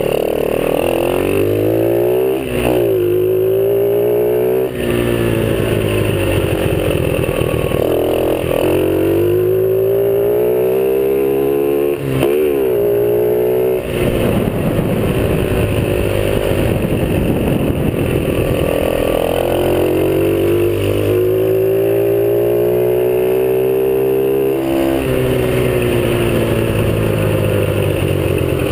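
50cc dirt bike engine being ridden, revving up and dropping back over and over: the pitch climbs several times and falls off sharply as the throttle is opened and shut.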